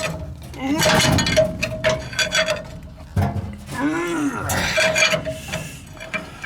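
Steel pry bars scraping and clicking against a seized Buda diesel as it is barred over by hand. Two rising-and-falling squeals come about a second and about four seconds in.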